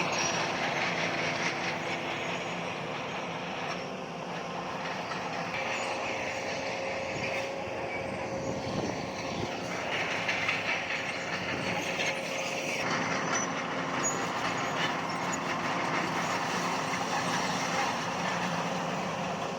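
Heavy diesel earthmoving machinery running steadily, a continuous engine drone with a dense rumbling, rattling noise over it.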